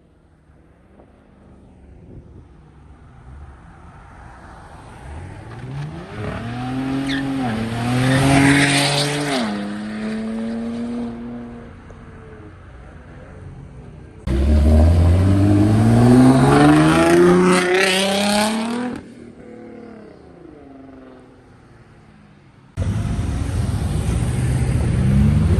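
Modified muscle car engines accelerating hard, three in turn. The engine pitch climbs steeply each time, and the first drops back briefly as it shifts about nine seconds in. The second and third start abruptly, about fourteen and twenty-three seconds in.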